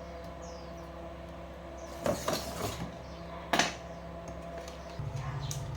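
A steady low electrical hum with two sharp clattering knocks, about two and three and a half seconds in, and a louder buzzing hum that comes on near the end; a bird chirps faintly at the start.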